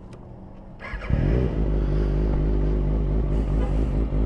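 Quiet for about the first second, then a vehicle engine comes in suddenly and loudly and keeps running at a steady pitch.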